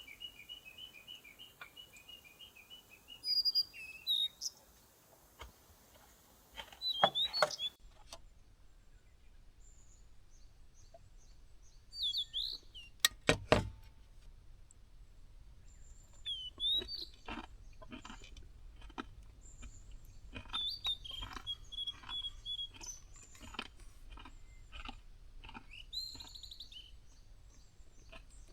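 Birds chirping in short trills and calls, among scattered sharp clicks and knocks; the loudest sounds are a cluster of knocks about seven seconds in and again about thirteen seconds in.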